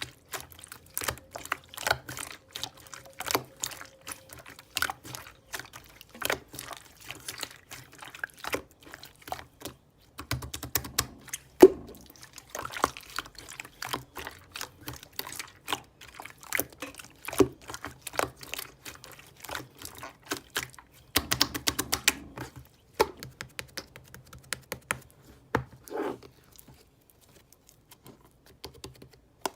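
Slime being squeezed and pressed by hand, making quick irregular clicking and popping sounds with wet squishes.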